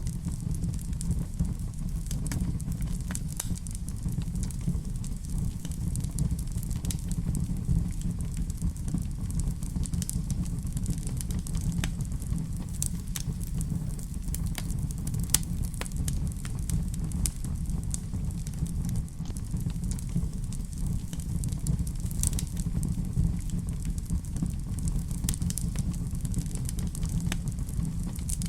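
Wood fire burning in a fireplace: a steady low rumble with frequent scattered crackles and pops.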